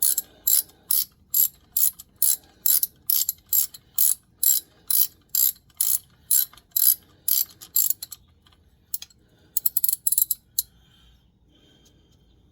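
Ratchet wrench with a hex-10 bit spinning out a transfer case plug, its pawl rattling on each back-swing about twice a second. Near the end comes a quicker run of clicks, and then the ratcheting stops.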